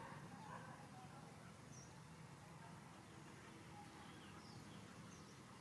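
Near silence: faint background hush with a few brief, faint, high chirps from small birds.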